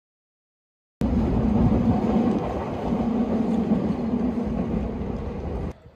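Meitetsu electric train running past, a loud steady rumble with a hum that swells and fades. It cuts in suddenly about a second in and cuts off just before the end.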